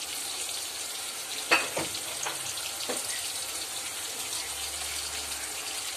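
Onion-tomato masala, with chili powder just added, sizzling in a steel pot as a steady hiss. Two brief knocks sound, about a second and a half in and again around three seconds.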